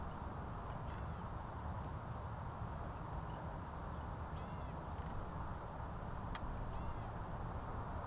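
A longclaw gives three short call notes, each rising then falling in pitch, about two to three seconds apart, over a steady low background hiss. A single sharp tick comes just before the last call.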